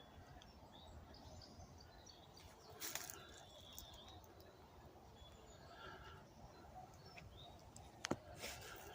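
Faint woodland birdsong: scattered short chirps and brief whistled notes from small birds over quiet background. A soft knock about three seconds in and a sharp click about eight seconds in.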